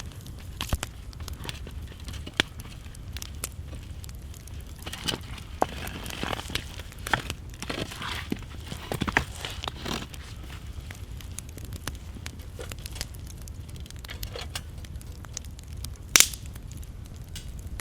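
Small wood fire crackling with irregular sharp pops, one louder pop about sixteen seconds in. A denser stretch of crackling and rustling comes in the middle.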